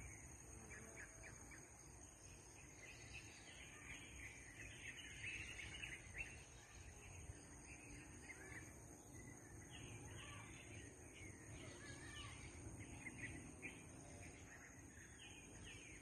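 Faint bird chirps: many short, high twittering calls throughout, over a low background rumble and a steady high-pitched whine.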